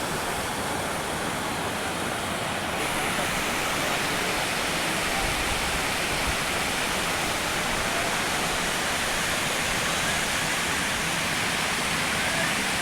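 Steady rushing of a waterfall, a dense even hiss of falling water that grows brighter about three seconds in.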